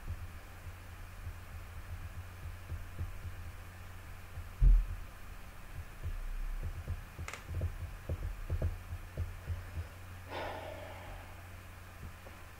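Low thumps and knocks over a steady low hum: one loud thump about four and a half seconds in, a sharp click a little before halfway, a run of softer thumps after it, and a brief rustling burst near the end.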